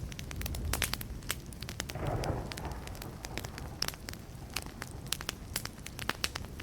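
Burning wood fire crackling, with many sharp pops over a steady low rumble; a short hiss swells about two seconds in.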